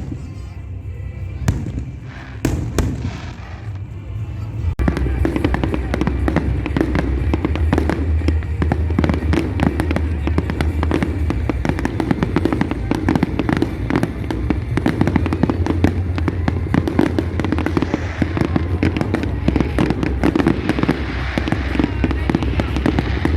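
Fireworks display: a few separate bangs, then about five seconds in a dense, continuous barrage of rapid cracks and pops over a steady low rumble.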